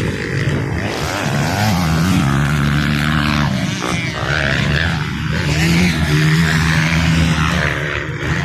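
Motocross motorcycle engines running hard on the track, the pitch rising and falling as the riders work the throttle and shift, with a more steady high-revving stretch near the end.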